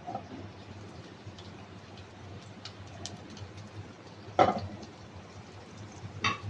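Garlic and green onion frying in hot oil in a pan, a faint sizzle with scattered small crackles, and two sharp knocks of a utensil against the pan near the end, the first the louder.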